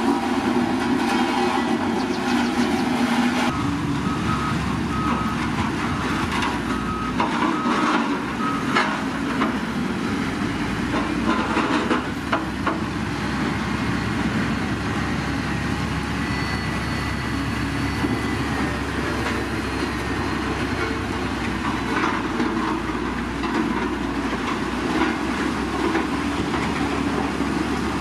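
Heavy diesel road-building machinery running steadily, with scattered clanks and knocks during the first half.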